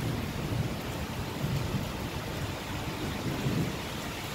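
Steady rain falling on the deck and wet pavement, with a low rumbling that is strongest at the start and swells again twice.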